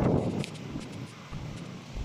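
Strong wind buffeting the microphone in a low rumble, a gust easing off about half a second in.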